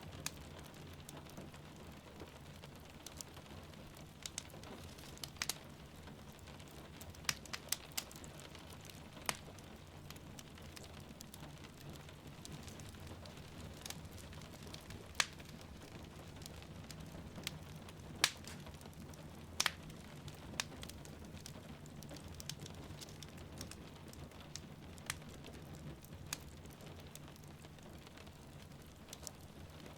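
Wood fire crackling in a fireplace, with scattered sharp pops and snaps over a steady patter of rain.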